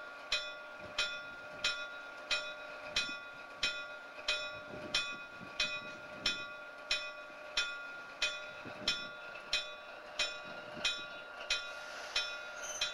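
Locomotive bell ringing steadily, about three strikes every two seconds, each ring sustaining into the next. A faint low rumble of the train runs underneath.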